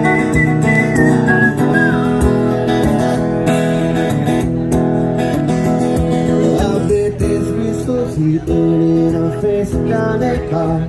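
Acoustic guitar music, strummed, with a high melody line in the opening second or so.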